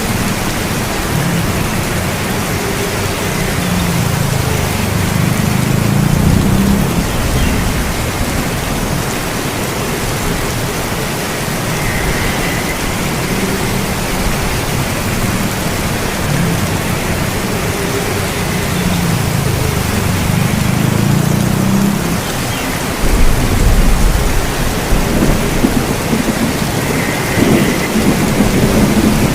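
Steady heavy rain falling, with thunder rumbling low in the background in rolling swells; a louder rumble of thunder comes in about three-quarters of the way through.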